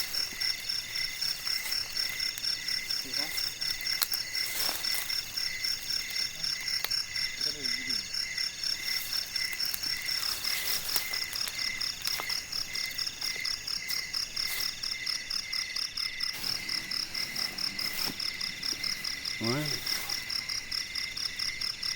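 Nighttime chorus of forest insects and frogs calling: several steady, rapidly pulsing chirps at different pitches overlap, one of them coming in repeating stretches about a second long.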